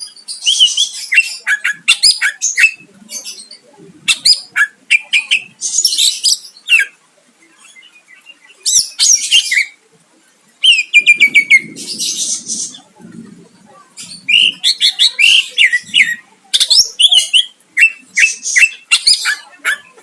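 Cucak ijo (green leafbird) singing in bursts of fast, high chattering and whistled notes, with short pauses between the phrases.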